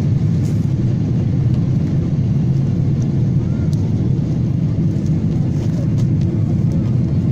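Steady low drone of an aircraft in flight heard from inside the passenger cabin: engine and airflow noise.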